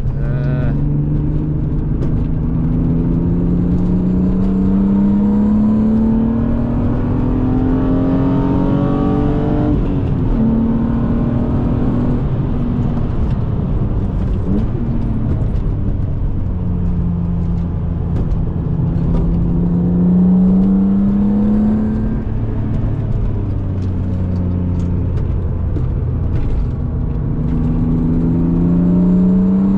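BMW E36 M3's straight-six engine, with an aftermarket intake and exhaust, heard from inside the cabin while driven hard on track. It pulls up through the revs in three long climbs, about ten seconds, five seconds and three seconds long, and drops back between them as the driver lifts and shifts.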